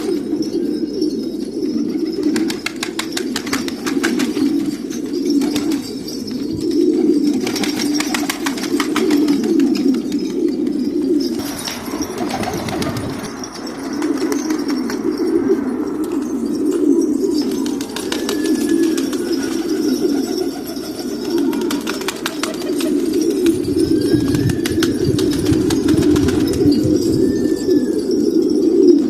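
Many domestic pigeons cooing together in a continuous low drone, with stretches of wing flapping and clattering over roughly the first ten seconds.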